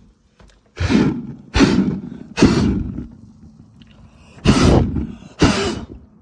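Five loud, breathy rushes of a person's breath, each about half a second long, in two groups: three close together, then a pause, then two more.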